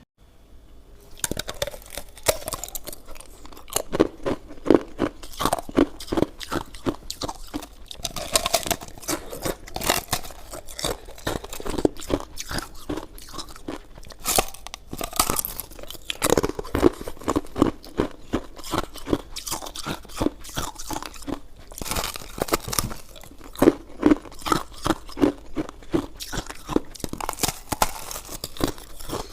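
Close-up eating sounds: a person biting and chewing, many quick, irregular crunchy clicks one after another, starting about a second in.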